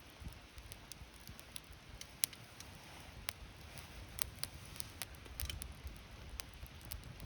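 Wood campfire crackling: irregular sharp pops and snaps, the loudest a little over two seconds in, over a low steady rumble.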